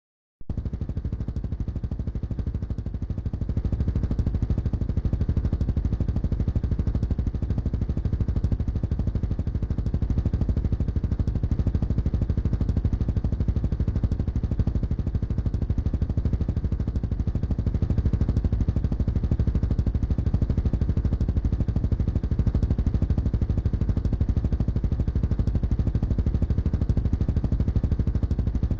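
Motorcycle engine running steadily with a rapid, even pulsing, cutting in abruptly about half a second in.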